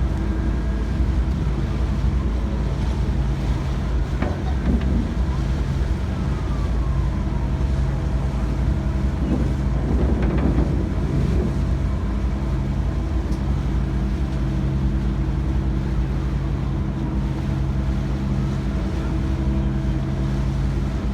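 Tour boat's engine running steadily with a low drone, with wind buffeting the microphone.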